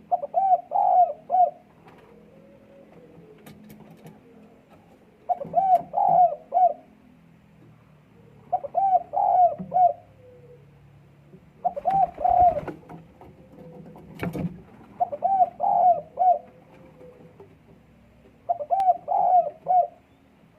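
Puter dekukur dove cooing: six multi-note coo phrases, one every three to four seconds, the strong calling of a dove in breeding condition. A sharp click about two-thirds of the way through.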